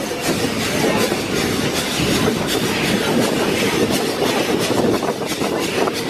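Puffing Billy narrow-gauge steam train on the move: a steady, loud rattle of wheels and carriages on the track, with many fine clicks throughout.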